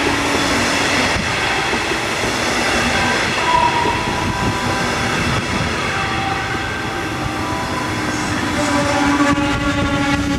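A metronom double-deck passenger train running past along the station track: a continuous rumble of wheels on the rails, with several steady ringing tones over it.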